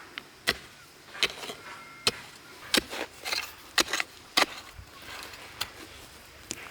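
A tool striking bamboo: about eight or nine sharp, irregularly spaced hits, some with a brief ring after them.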